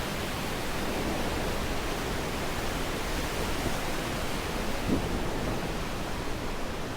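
Steady hiss of tyre and wind noise from a Tesla Model S driving along the road, with no engine note.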